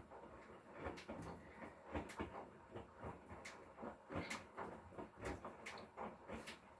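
Irregular light knocks and clicks, several a second.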